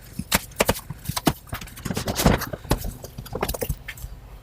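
A quick, irregular run of knocks and clicks from hard objects being handled, with a short scraping rustle about two seconds in.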